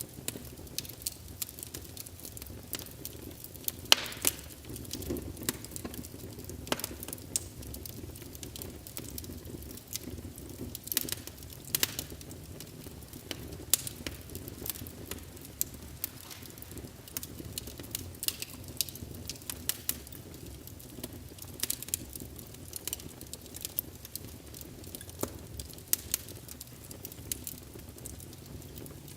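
Wood fire burning in a fireplace: logs crackling with frequent irregular sharp pops over a steady low rush of flame, with one louder pop about four seconds in.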